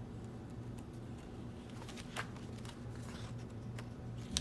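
Quiet room with a steady low hum and a brief paper rustle about two seconds in and another near the end, as the pages of a picture book are handled.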